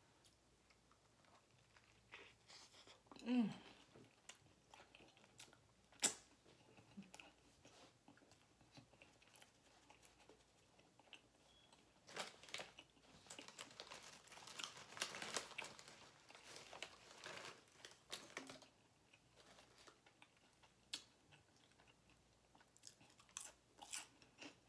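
Close-miked, quiet chewing and crunching of a crusty cheesesteak sub roll, with a denser run of crunching in the middle. There is a short hum of the voice about three seconds in.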